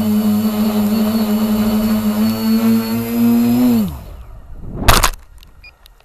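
Radio-controlled helicopter's motor and rotor running with a steady whine, which rises briefly and then winds down quickly in falling pitch about four seconds in as the power is cut. A loud sharp knock follows about a second later.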